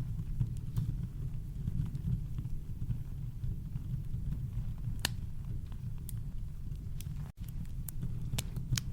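Campfire crackling with a few scattered sharp pops over a steady deep rumble of brown noise. The sound drops out for a split second a little after seven seconds in.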